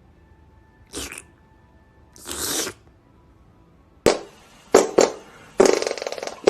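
Two short breathy hissing noises, then from about four seconds in a series of loud, buzzy brass-horn blasts: a few short stabs and one longer held blast.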